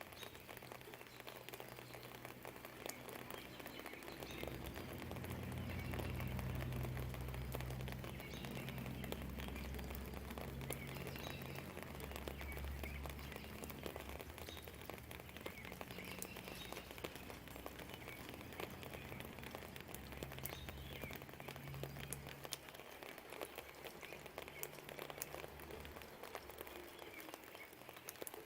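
Steady rain falling outside a window, with close drops pattering and dripping, and faint bird chirps. A long low rumble swells about four seconds in and fades near the end.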